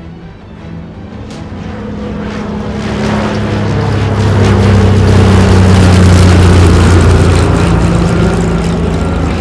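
Propellers of a radio-controlled foam B-26 Marauder model plane flying past, a steady propeller hum that grows louder to a peak about six seconds in, then fades as its pitch drops slightly.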